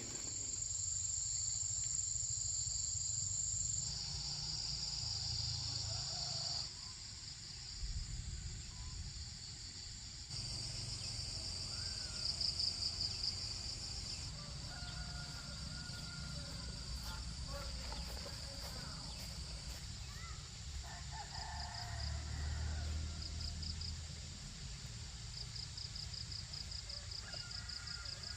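Insects, crickets or similar, chirping steadily in a high, thin trill that pulses rapidly near the end, over a faint low rumble.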